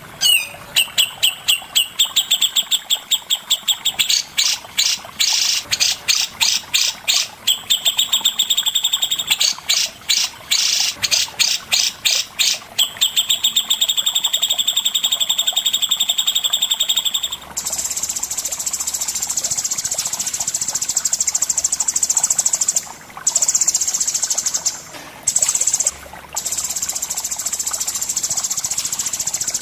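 Songbird masteran recording: bursts of rapid, high chattering trills for the first half. From a little past halfway a steady, high cricket trill takes over, dropping out briefly three times near the end.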